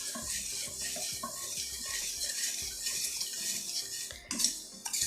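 Sugar-and-water syrup bubbling in a pan while a spoon stirs and clinks against the metal, with two sharper clinks near the end.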